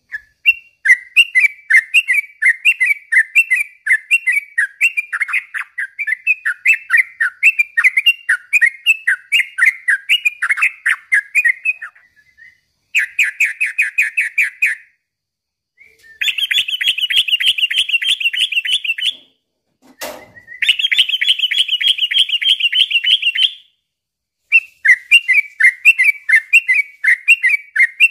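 Yellow-vented bulbul (trucukan) singing vigorously, in runs of quick, repeated chirpy phrases. Three stretches of fast, even trilling break these up in the middle. A single sharp click comes about two-thirds of the way through.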